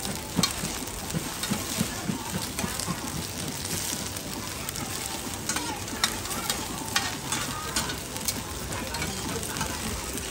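Cubes of rice-and-radish cake (chai tow kway) sizzling in oil on a flat metal pan. A metal spatula and tongs scrape and clink against the pan many times as the cubes are turned.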